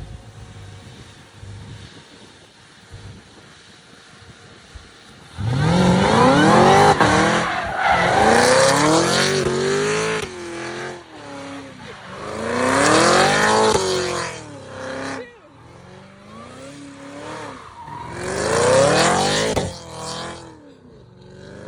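Hennessey Performance-tuned car's engine revving hard under acceleration, starting loud about five seconds in. The pitch climbs through the revs and falls back several times, as in runs up through the gears or repeated hard launches.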